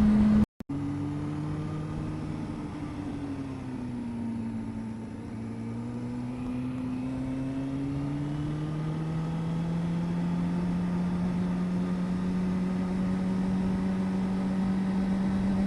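Vehicle engine running on the move, a steady drone whose pitch sags a little about four to five seconds in and then climbs back. The sound cuts out for a split second near the start.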